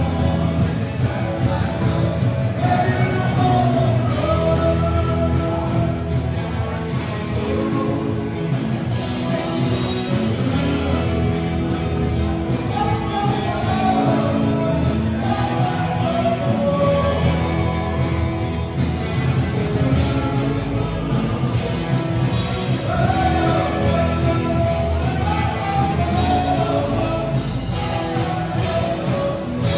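Live rock band playing a song, a singer's voice carrying the melody over the band.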